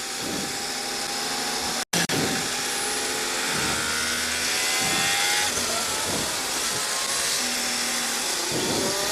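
Formula 1 cars' turbo-hybrid V6 engines running, their pitch rising and falling with the revs, over a steady hiss. The sound cuts out for an instant about two seconds in.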